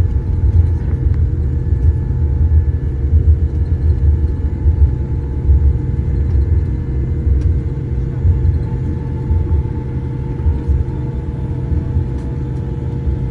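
Cabin noise inside a Boeing 787-8 taxiing after landing: a low, uneven rumble of the airliner rolling on the ground, with a faint steady hum over it.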